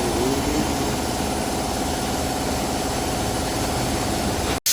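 A motor or engine running steadily with a low, even drone, cut off abruptly near the end.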